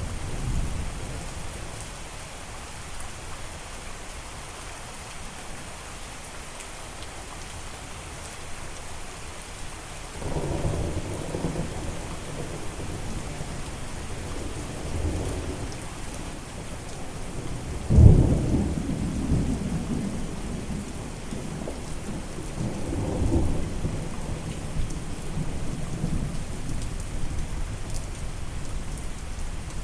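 Steady rain with thunder. A low rumble builds about ten seconds in, then a sharp, loud thunderclap a little past halfway rolls on for several seconds, with another rumble a few seconds after it.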